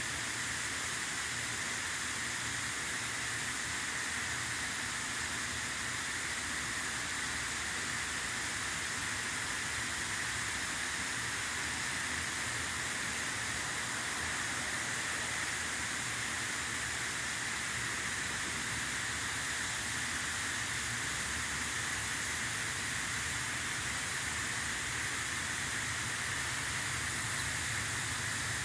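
Steady rumble and hiss of a train, with no change in level.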